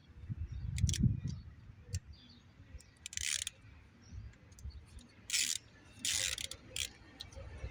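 Socket ratchet wrench clicking in several short bursts as nuts are turned, with scattered sharp metal clicks between them. A low rumble in the first second is the loudest sound.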